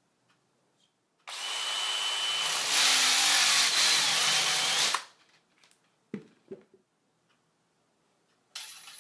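High-speed drill spinning a spin flaring tool for about four seconds. It gets louder partway through and cuts off suddenly. Two light knocks follow.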